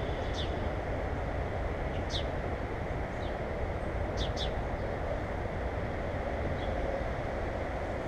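Small birds giving short, high chirps, about six in all, two in quick succession midway, over a steady low rushing background noise.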